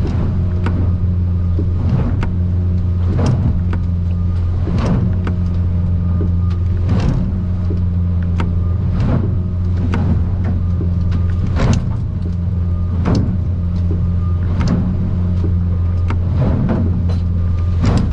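Outboard engine of an aluminium boat droning steadily under way. The hull slaps and bangs on waves every second or two in rough water.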